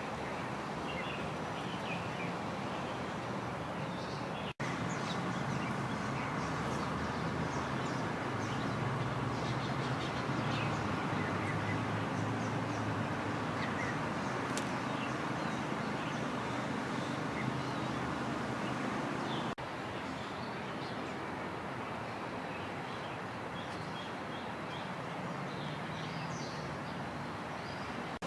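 Scattered small bird chirps over a steady low rumble of distant traffic. The rumble is louder in the middle stretch, between two brief dropouts.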